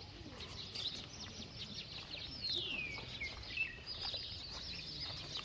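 Birds chirping in the background: a high falling call about two and a half seconds in, then quick repeated high chirps near the end.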